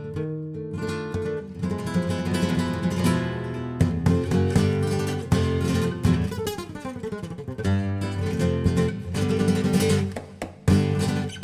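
Background music: flamenco-style acoustic guitar, strummed and plucked, with sharp rhythmic strums.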